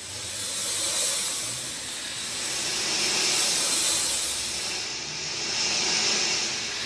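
Rain falling in a steady hiss that swells and eases in slow waves, at its loudest about one second in, around the middle and near the end.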